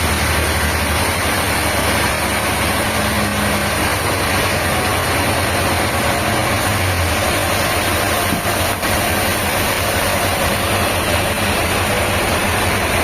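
Diesel engine idling steadily, a low hum under a constant mechanical noise.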